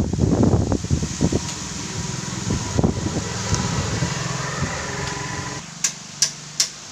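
A motor hums steadily and cuts off suddenly about five and a half seconds in. Then come three short, sharp clicks.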